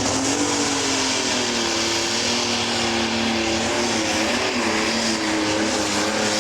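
Pro stock pulling tractor's turbocharged diesel engine running hard at high revs, its pitch wavering up and down.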